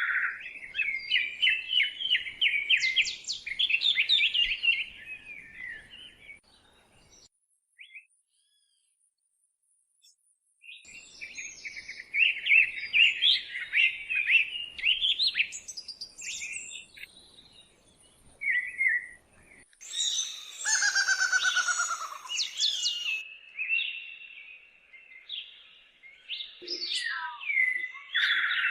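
Songbirds singing in the woods: phrases of rapid chirps, broken by a few seconds of silence about a third of the way in. About two-thirds of the way in comes a harsher call that falls in pitch, then high chirping carries on.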